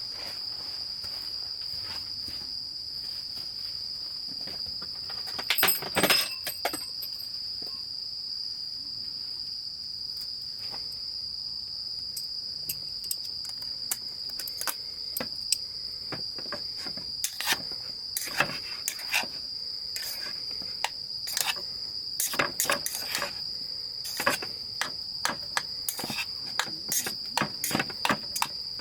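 Steady high chirring of crickets, with scattered sharp clicks and knocks over it, the loudest cluster about six seconds in and more frequent in the second half.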